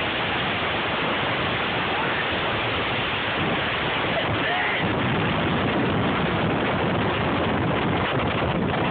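Blizzard gale blasting across the camera microphone, a dense steady rush of wind noise that grows heavier in the low end about halfway through.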